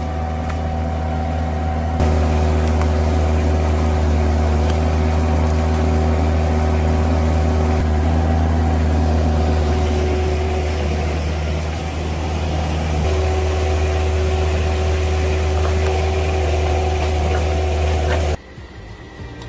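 Heavy machinery engine running steadily under load, with a strong low hum and several steady tones above it. It steps up in loudness about two seconds in and cuts off suddenly near the end.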